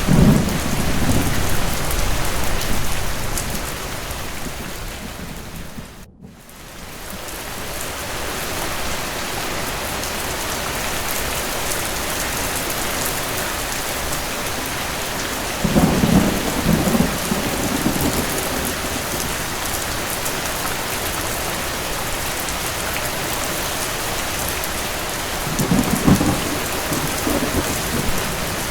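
Steady rain with low rolls of distant thunder near the start, about halfway through, and again near the end. About six seconds in, the whole sound briefly fades away and comes back.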